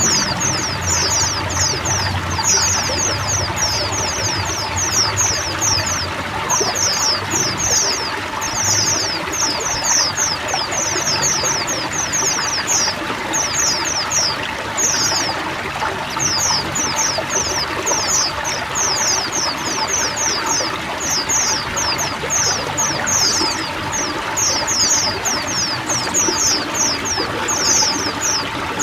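A flock of pleci (white-eyes) chirping together in continuous runs of quick, falling, high-pitched notes over steady running water. This is a chorus played to a silent pleci to stimulate it into singing again.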